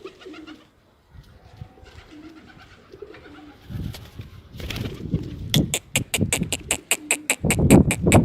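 Pigeons cooing low and softly. About five and a half seconds in, a fast, even run of sharp clicks or claps starts, about five a second and getting louder.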